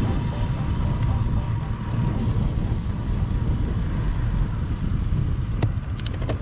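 Steady wind rumble and road noise from a moving bicycle, as picked up by a bike-mounted camera's microphone, with a few sharp clicks near the end.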